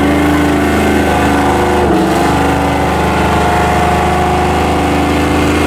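A vehicle engine held at high, steady revs, with a brief dip about two seconds in.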